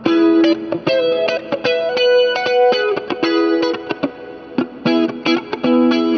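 Electric guitar played through a compressor pedal: a quick run of picked single notes and double-stops, each note ringing on evenly after its attack.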